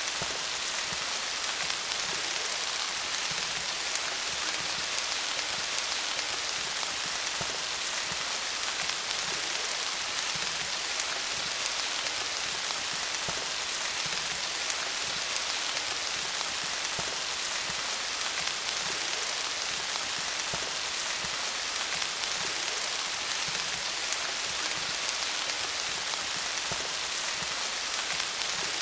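Steady rain falling on leaves: a dense, even patter of drops with no change in intensity.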